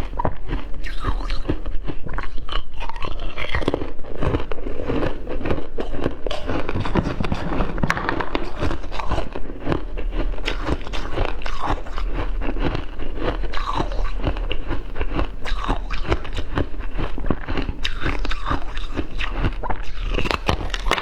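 Ice being bitten and chewed: a continuous run of close, crisp crunching.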